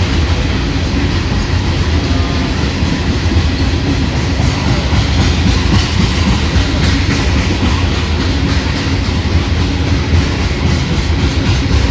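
Coal hopper cars of a freight train rolling past, a steady, loud low rumble of steel wheels on rail with wheel clicks over the rail joints.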